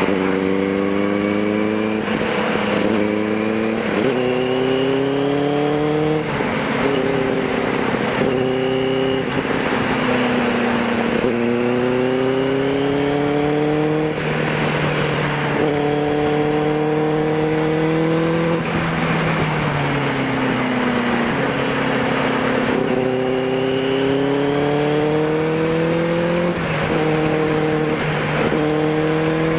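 Benelli TNT 600i's inline-four engine through an aftermarket IXIL exhaust, accelerating and shifting up through the gears. The pitch climbs and then drops at each shift, several times over, with one longer slow-down about two-thirds of the way through before it pulls again.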